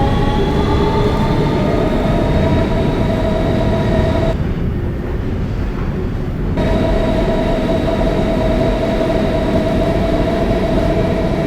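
R160B subway car with Siemens propulsion running through a tunnel: steady whining tones from the traction motors over the rumble of the wheels on the rails, heard from inside the car. The whine drops out for about two seconds mid-way while the rumble continues, then comes back at a steady pitch.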